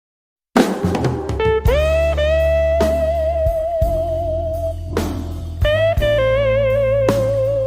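Blues music starting after half a second of silence: a slide guitar plays long notes that glide up into place and waver with vibrato, over bass and drums.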